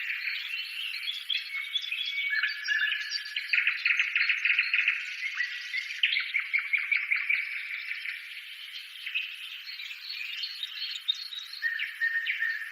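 A dense chorus of birds chirping and trilling, with rapid chatters and short whistled notes overlapping throughout.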